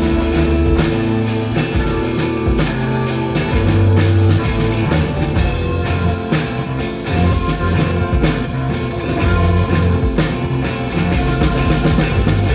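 Live rock band playing an instrumental passage: drum kit keeping a steady beat under guitar and low bass notes.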